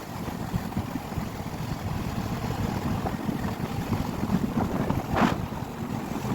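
Wind rushing and buffeting on the microphone of a moving motorcycle, with the engine running underneath. A short swell about five seconds in.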